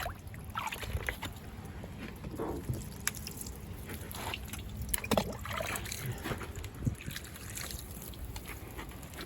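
Hot tap water poured over an iced-over car door, trickling and splashing off it, with scattered irregular clicks and knocks.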